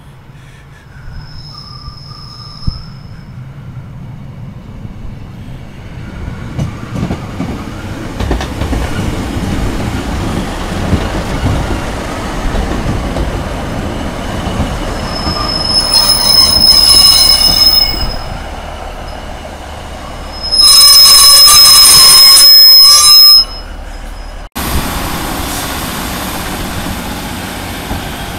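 Diesel multiple unit running along a station platform, its wheels squealing in high, piercing bursts; the loudest squeal lasts about three seconds, a little past the middle. A low rumble from the train underlies it, and the sound breaks off abruptly about three-quarters of the way through before the train's rumble resumes.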